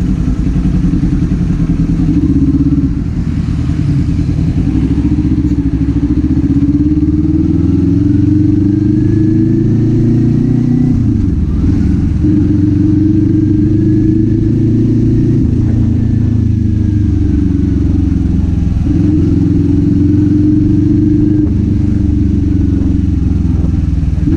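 Kawasaki Z400's parallel-twin engine and exhaust running under way, the engine note climbing with the revs and dropping back at gear changes, most clearly about eleven seconds in.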